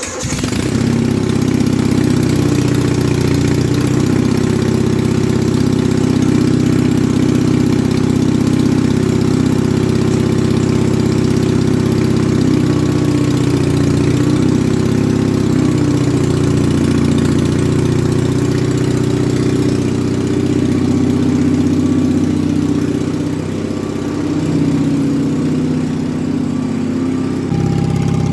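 1971 Gravely 450 tractor's engine running steadily after a carburetor rebuild and new manifold gaskets. Near the end it sags for a few seconds, then picks back up.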